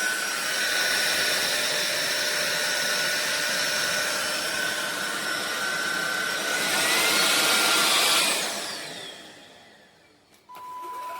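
Cordless stick vacuum motor running with a steady whine, growing louder for a moment, then switched off and winding down with falling pitch. A short steady tone follows near the end.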